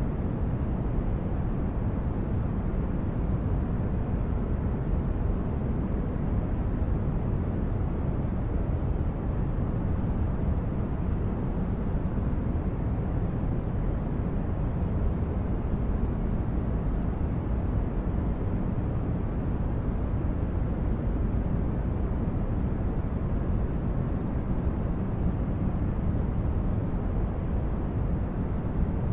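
Synthetic spaceship-interior ambience: a steady, deep rumbling noise like brown noise, heaviest in the bass, with no change or separate events.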